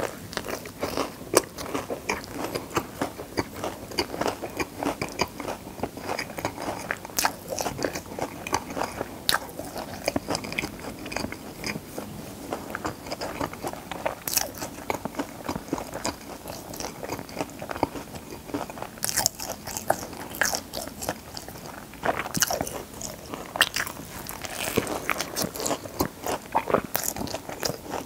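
Close-up biting and chewing of a fried chicken fillet burger (Paris Tower Burger): many irregular sharp crunches of the breaded fillet with chewing in between.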